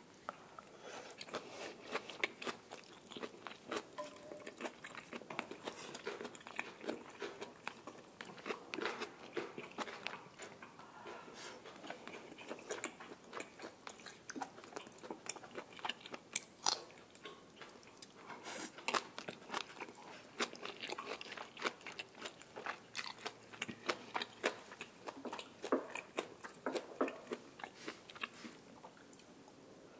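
A person chewing and crunching mouthfuls of grilled Korean beef with grilled red bell pepper, close-miked: wet chewing broken by many short, irregular crisp crunches.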